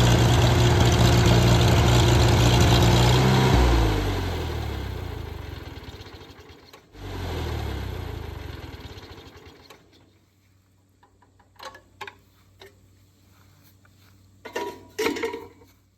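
Tractor engine running steadily, then shut off about three and a half seconds in, its pitch dropping as it winds down and fades. A few short clicks and knocks follow near the end.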